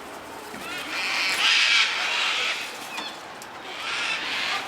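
Birds calling: a harsh screech about a second and a half in and another near the end, with short chirps between them.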